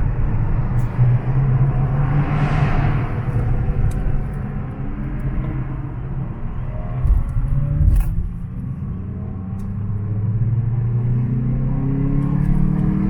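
Car engine running under way, a low steady drone that climbs in pitch over the last few seconds as the engine revs up. A couple of short thumps come about halfway through.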